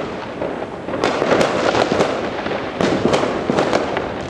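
Fireworks going off: a dense, continuous barrage of crackles and bangs, with louder bursts about a second in and again near three seconds.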